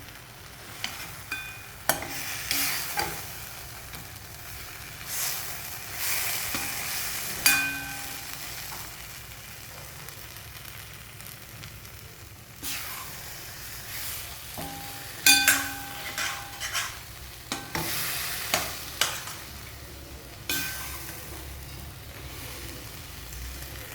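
Food frying in a pan with a sizzle that swells in waves as it is stirred, and a utensil clinking and scraping against the pan many times, some strikes ringing briefly.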